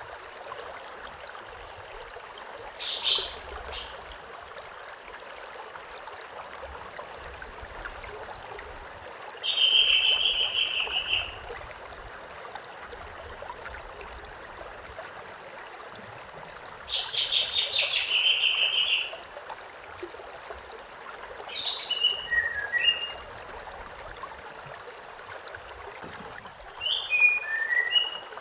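River water flowing steadily, with a songbird breaking in about five times with short high calls and trills, the longest at around ten and eighteen seconds.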